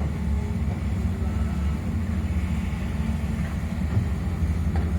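Engine of heavy earth-moving machinery running steadily, a continuous low rumble.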